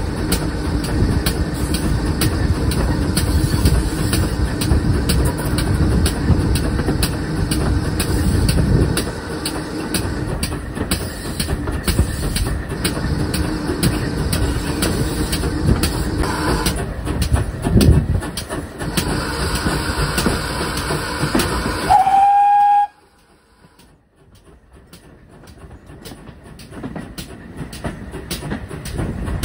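Steam train hauled by a GWR pannier tank locomotive, running with a steady rattle and many clicks. About three-quarters of the way in a short high whistle-like tone sounds, then the sound drops away abruptly and a quieter rumble slowly builds again.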